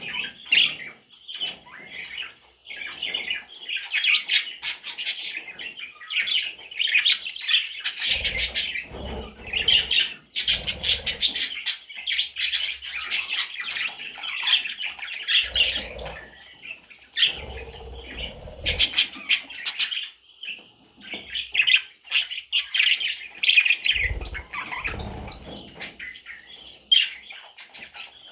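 Budgerigar chicks chirping and squawking almost without pause, a busy overlapping chatter of raspy calls. A few dull low thumps come through several times along the way.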